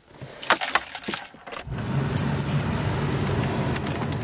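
Keys jangling and a few clicks at the ignition, then, about a second and a half in, a 1990 Geo Metro's 1.0-litre three-cylinder engine is cranked and starts from cold, running steadily.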